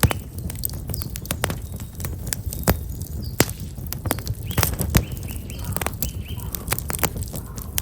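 Black locust firewood burning in an open fire, crackling with frequent sharp pops and snaps over a low rumble of flames. A few quieter small-bird chirps come in around the middle.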